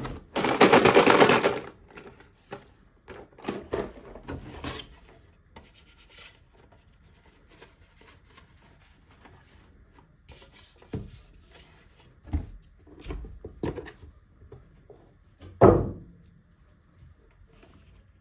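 Hands unboxing and handling toys and their packaging: a loud rustling burst at the start, then scattered rustles, taps and clicks, and a heavier knock near the end.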